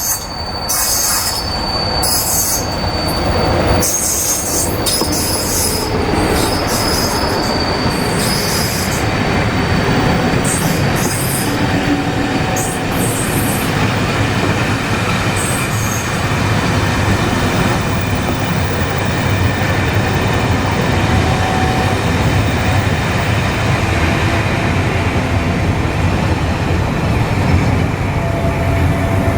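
A train running through the station with steady rail noise. High-pitched squealing comes in repeated short bursts over roughly the first fifteen seconds, then fades into the steady running noise.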